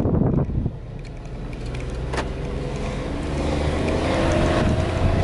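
Car engine and road noise heard from inside the cabin while driving. A louder rushing noise drops away about half a second in, then the engine note rises and grows louder as the car accelerates.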